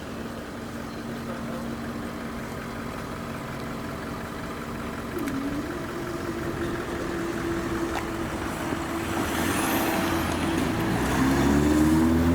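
Road vehicle engines running and getting steadily louder. Near the end one engine rises in pitch as it pulls away.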